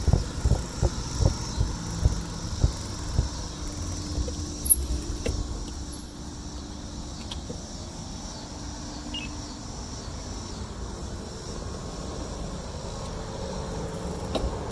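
Wind buffeting the microphone while riding a bicycle: gusty low thumps for the first several seconds, then a steadier rush. Two brief high squeaks come about five and six seconds in.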